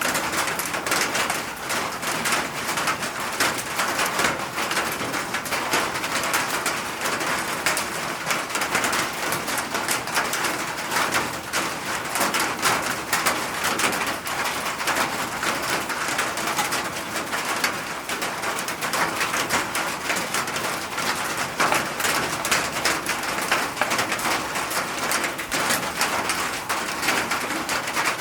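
Steady rain falling, a dense even hiss of many small drop impacts.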